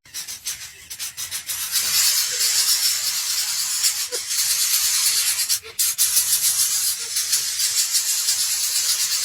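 Dense scratchy rustling made of many fast little scrapes and clicks, with a short break a little before halfway through.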